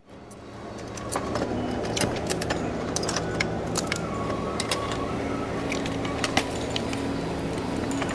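Scattered sharp metallic clicks and clinks of hand tools and bolts against metal bumper parts, over steady held background tones.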